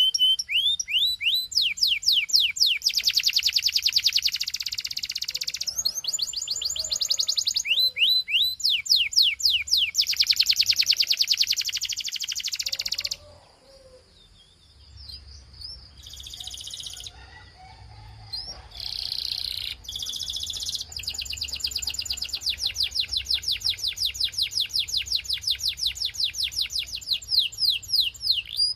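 Belgian canary singing in long rapid trills and runs of quick downward-sweeping notes. There is a short break about halfway through, then the bird sings a long fast trill again.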